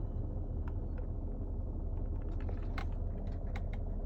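A steady whirring rumble with a few light ticks: the unexplained noise that a 2014 Mercedes GL 350 (X166) makes from its engine compartment only while the climate fan is running. The cabin blower itself has already been replaced and ruled out as the cause.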